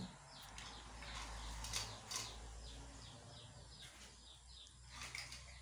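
Faint chirping of small birds in the background, a quick run of short repeated chirps, over a low steady hum. A few soft clicks come about two seconds in and again near the end.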